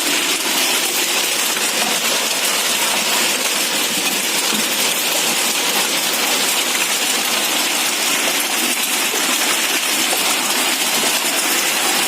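Hailstorm: hail and rain pelting down, a steady, dense hiss of hits that holds unchanged throughout.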